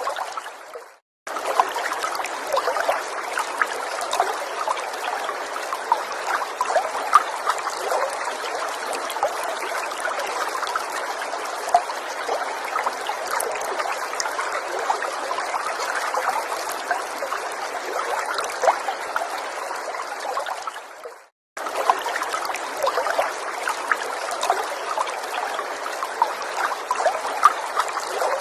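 Small stream trickling and burbling over stones, a steady rush of water with many little splashes. It fades to silence and cuts abruptly back in twice: about a second in and again about three-quarters of the way through.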